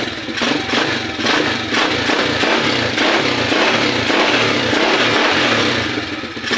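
Kayo 120 cc single-cylinder four-stroke motorcycle engine revved above idle, easing off near the end. Freshly serviced with the valve clearances just set, it runs smoothly with no valve tick to be heard.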